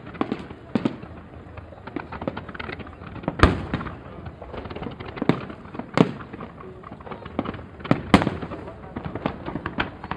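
Fireworks going off: a dense run of crackling pops and bangs, with three louder booms a couple of seconds apart.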